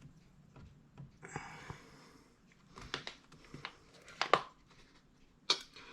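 Scattered small clicks and taps of clock-movement parts being handled and fitted into place, with a brief rustle about a second in and sharper clicks around four and five and a half seconds in.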